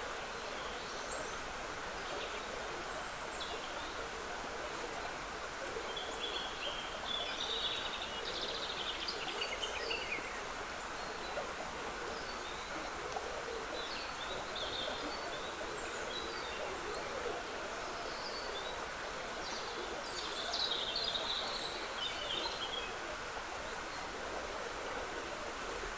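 Water trickling steadily in a woodland stream, with songbirds singing short twittering phrases over it, busiest about a quarter of the way in and again past the middle.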